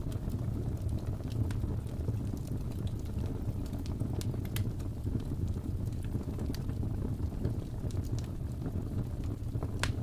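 Wood fire burning in a fireplace: a steady low rumble of flames with scattered sharp crackles and pops. Two pops stand out, one about halfway and one near the end.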